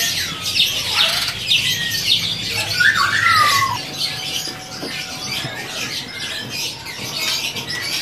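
Many caged songbirds chirping and calling at once, with a louder call that glides down in pitch about three seconds in.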